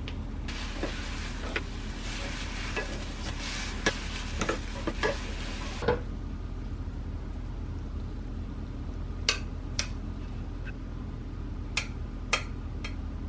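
Food sizzling in a frying pan while it is stirred, with utensils clicking against the pan. The sizzling stops about six seconds in, and a few sharp clinks of a utensil on cookware follow.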